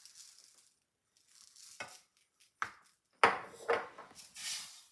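A few sharp metallic knocks and clinks of a metal saucepan and kitchen utensils being handled, the loudest two a little past the middle, then a brief hiss near the end.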